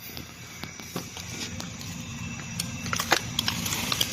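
A heavy truck's diesel engine rumbling and slowly building in loudness, with scattered crackles and clicks, busiest about three seconds in.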